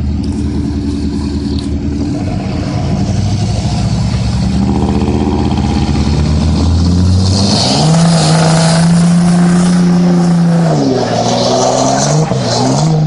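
Pickup truck engines, a Cummins diesel and a 6.0-litre Chevy, pulling hard against each other in a truck pull. The revs climb gradually, jump to a high steady pitch about eight seconds in, drop near eleven seconds, then rise and fall again.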